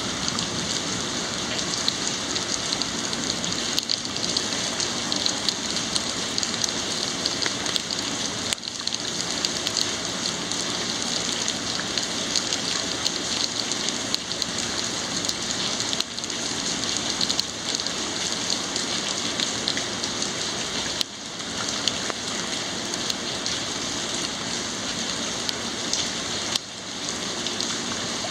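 Rain falling steadily, a dense even patter of drops with no thunder.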